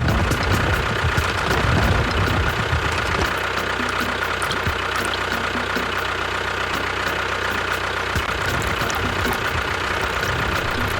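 A small motor running steadily with a constant whine, with heavier low rumbling in the first three seconds.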